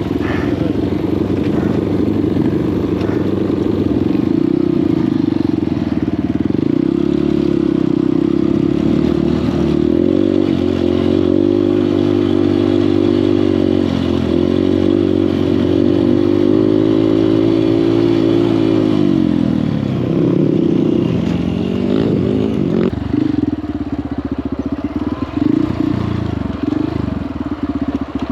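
Honda CRF150L's single-cylinder four-stroke engine running steadily under way. Its pitch drops about two-thirds of the way through and climbs again, then it runs lower and more unevenly, with clatter, to the end.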